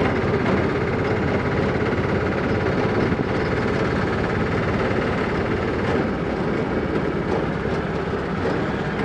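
Motorcycle engine running steadily at a constant pitch, with road and wind noise.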